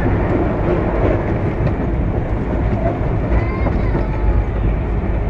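Inside a passenger coach of the Sealdah Duronto Express running at speed: a steady, loud rumble of the wheels on the track.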